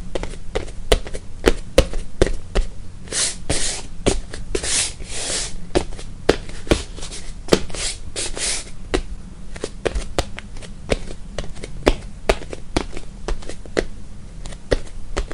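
Footsteps on a wooden floor: a steady, irregular run of sharp heel-and-toe knocks, about two or three a second, with a few brief scraping scuffs of the shoes about three seconds in and again near the eighth second.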